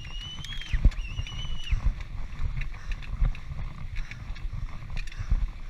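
Mountain bike ride heard from a GoPro: steady rumble and rattling thuds from the rough trail, with two high squeals one after the other in the first couple of seconds.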